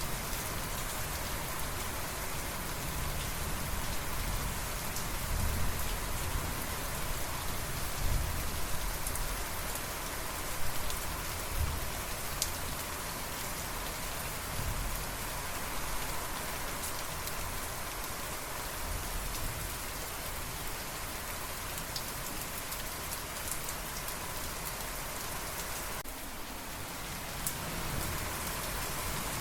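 Steady rain falling on a surface, with faint low rumbles of thunder now and then.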